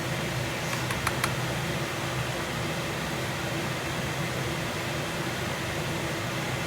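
Kitchen exhaust fan running with a steady, noisy whoosh and a low hum. About a second in come three quick light clicks.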